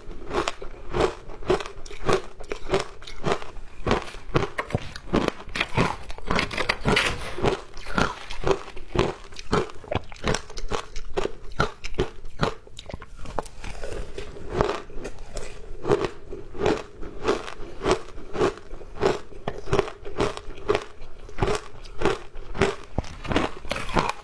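Ice being bitten and chewed: a continuous run of crisp crunches, several a second.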